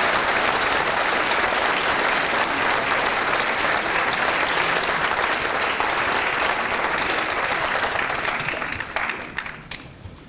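Theatre audience applauding steadily, then the clapping thins out and dies away to a few last claps near the end.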